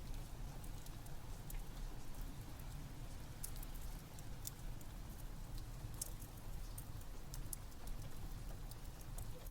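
Crackling fireplace with rain: scattered sharp crackles and pops over a steady low rumble.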